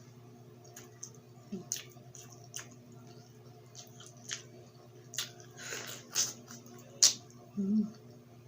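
Close-miked eating: wet chewing and lip-smacking of grilled street food, with irregular sharp mouth clicks, the loudest about seven seconds in. A low steady hum runs underneath.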